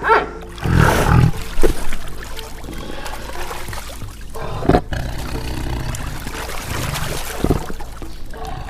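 A loud, low animal call lasting about half a second, a little under a second in, over a steady noisy background.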